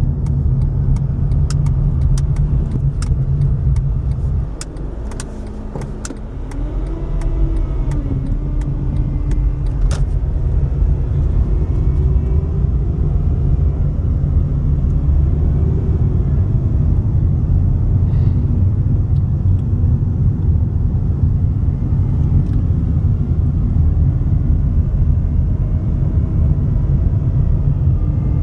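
Steady road and engine noise of a car being driven. It dips briefly about five seconds in, then comes back up, with a few light clicks in the first ten seconds.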